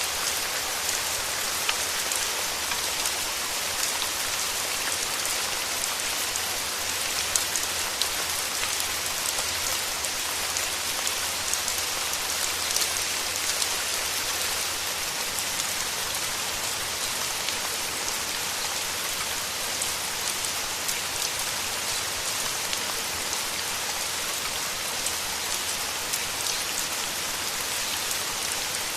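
Steady rain falling: an even, dense hiss sprinkled with many small drop ticks.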